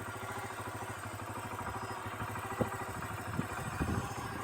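A motorbike or scooter engine running steadily, heard from on board, with a few short knocks near the middle and end.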